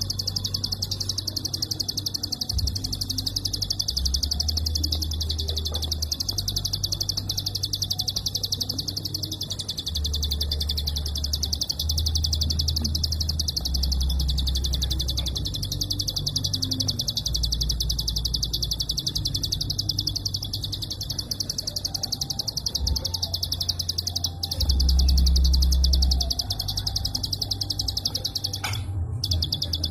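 Prinia (prenjak) singing its 'klik' song: very rapid, tightly packed high clicking notes in long strings, almost without a pause. A low rumble comes and goes underneath.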